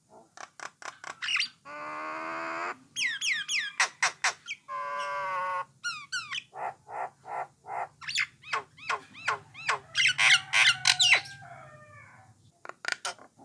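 A jalak nias (jalak coklat) myna singing a varied, loud song. It runs together quick whistles, sharp clicks, falling slurred notes and two drawn-out harsh, nasal notes.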